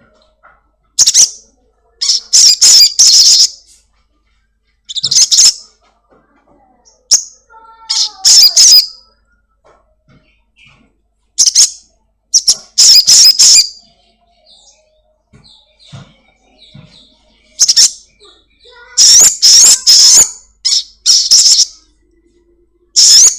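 Sogon (sogok ontong) sunbird calling in repeated loud bursts of rapid, very high-pitched chirps, each burst about a second long with short pauses between, the fast 'cuit cuit' chatter used as a lure to set other sogon calling.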